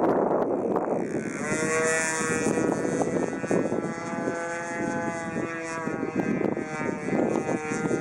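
Ugly Stick RC model airplane's motor and propeller running with a steady whine, its pitch dropping about a second in and then holding, under heavy wind buffeting the microphone.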